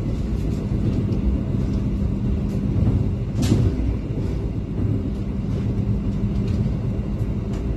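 Steady low rumble of the Purwojaya passenger train running, heard from inside the coach, with a steady hum and a single knock about three and a half seconds in.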